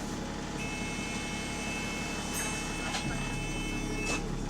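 Inside a bus: a low engine rumble, with a steady high-pitched electronic tone that starts about half a second in and stops after about three and a half seconds, and a few short clicks.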